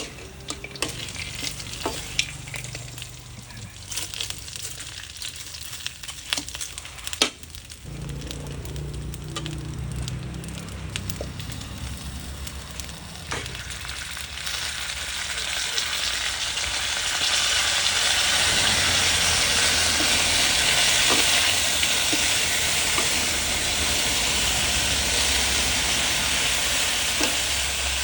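Food frying in a hot pan, with a few sharp knocks of a utensil against the pan early on. The sizzling swells about halfway in and stays loud and steady.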